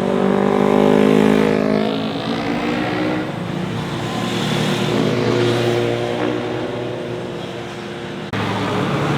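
Motorcycle engines passing close by, revving up and down in pitch as riders accelerate and slow for a corner. A sudden jump in sound about eight seconds in brings in another passing engine.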